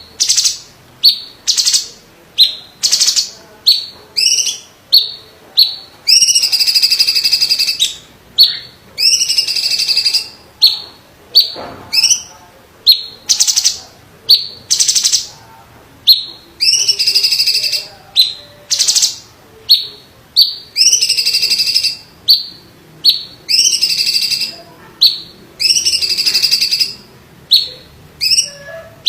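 Cucak cungkok, a green leafbird, singing loudly: sharp, quick high notes about once a second, broken up by several rolling trills that each last about a second.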